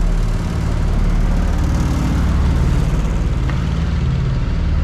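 Box truck's engine idling steadily with a low, even hum.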